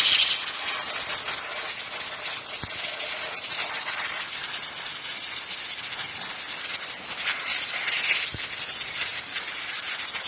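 A steady, loud hissing noise, a little stronger near the start and again about three-quarters of the way through.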